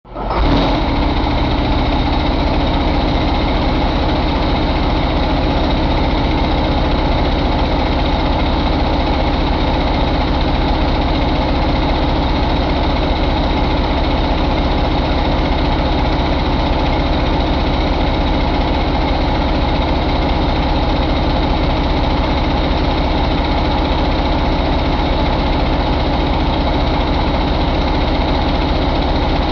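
International MaxxForce 11 inline-six diesel engine idling steadily at an even speed, with no revving.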